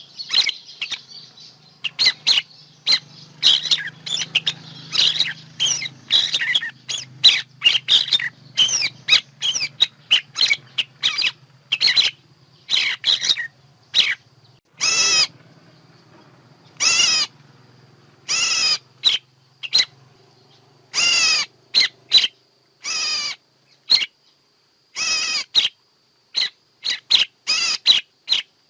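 Bird calls, dense and overlapping at first. From about halfway through they become separate harsh calls of about half a second each, one to two seconds apart.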